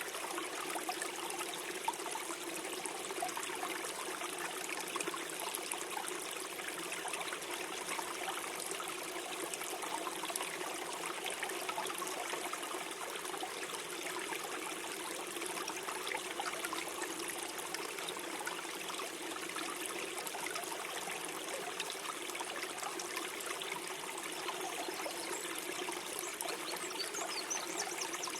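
Small forest stream trickling and gurgling over stones, a steady flow of water.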